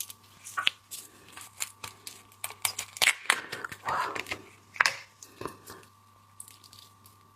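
Marinated shrimp head being torn open and its shell cracked close to the microphone: a string of sharp crackles and snaps, with a few longer, wetter sounds in the middle.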